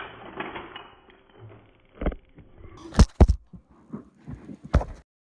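A few sharp wooden knocks and clacks, loudest two close together about three seconds in and another near five seconds, with lighter clicks between: Jenga blocks being knocked and pushed out of a tower. The sound cuts off suddenly about five seconds in.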